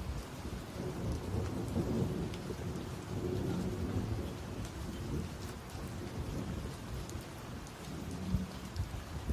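Steady rain falling during a thunderstorm, with a low rumble of thunder rolling on and off and scattered individual drops tapping close by.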